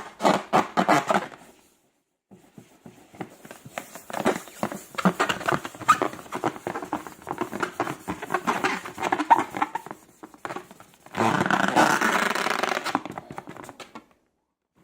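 Slime being squished and worked by hand, with rubbing and rapid sticky clicks and crackles in three stretches.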